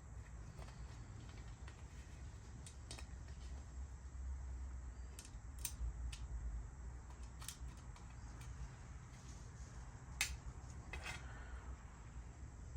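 Scattered light clicks and taps of small metal parts and tools being handled while a fender is fitted to a bicycle, the sharpest about ten seconds in with a short flurry just after, over a low steady hum.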